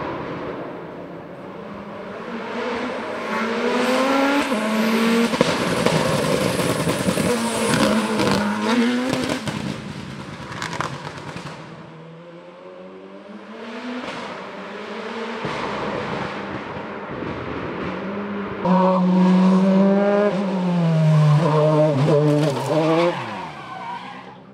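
Hill-climb race car engine at high revs, accelerating hard through the gears with stepped changes in pitch at each shift. It swells, fades and swells again as the car climbs past.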